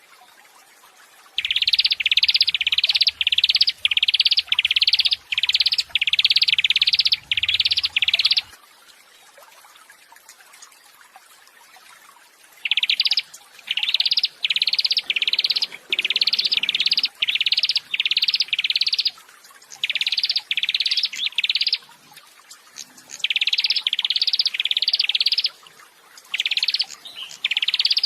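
A songbird repeating one high, sharp chirp about twice a second in runs of several seconds, broken by pauses of a second to four seconds.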